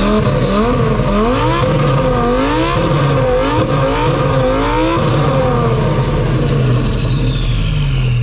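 Car engine revved over and over in quick blips, its pitch rising and falling about once or twice a second over a steady idle. From about five seconds in the revving stops and a high whine falls steadily in pitch.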